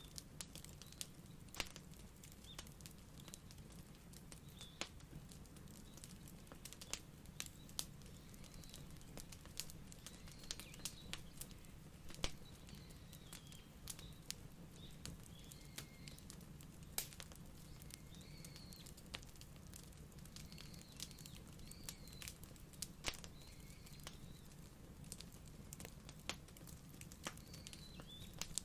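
Wood fire crackling: irregular sharp pops and snaps of varying loudness over a low steady rumble.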